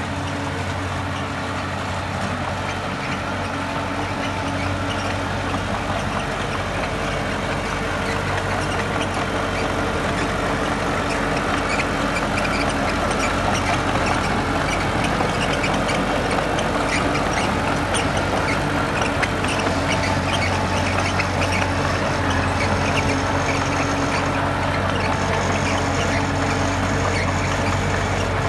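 Diesel engine of heavy construction machinery running steadily, slowly growing louder, with scattered short squeaks and clanks over it.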